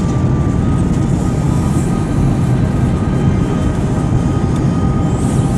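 Jet airliner engine noise: a steady, loud rumble with a thin high whine held above it.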